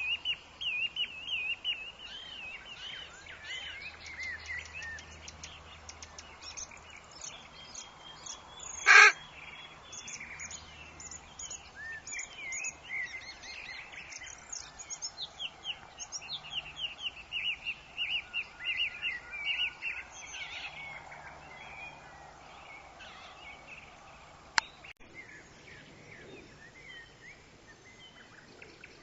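Forest birds chirping and trilling in many quick, overlapping calls, busy through the first twenty seconds and thinning toward the end. One short, loud harsh call about nine seconds in stands out above the rest, and there is a sharp click near the end.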